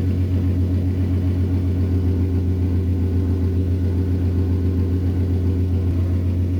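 Subaru GC8 STi's turbocharged flat-four engine running at a steady speed, with an even low rumble and no change in pitch.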